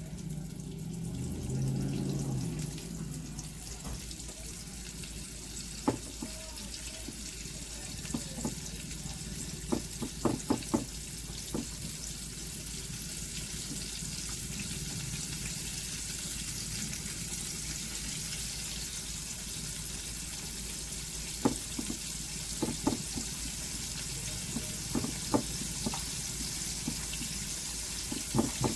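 Floured chicken legs frying in hot oil: a steady sizzle, with scattered sharp clicks and knocks, some in quick clusters.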